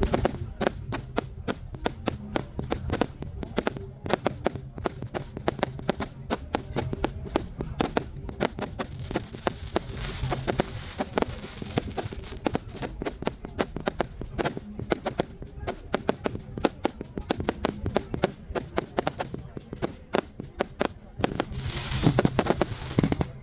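Fireworks display: a rapid, irregular string of bangs and crackles, with a louder burst near the end.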